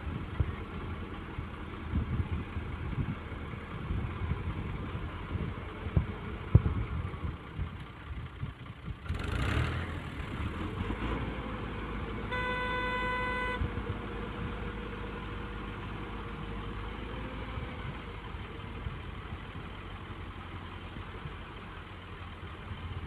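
Tractor diesel engine running with a low, uneven rumble and occasional knocks. A short surge comes about nine seconds in, and a vehicle horn honks once for about a second about halfway through.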